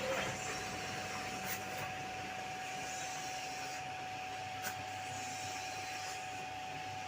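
An electric workshop machine, such as one used for cylinder sleeve boring, running steadily with a constant whine, with two light clicks along the way.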